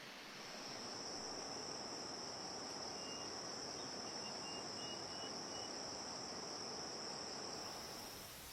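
A steady high-pitched insect trill, starting about half a second in and stopping near the end, over a background hiss, with a few faint short chirps in the middle.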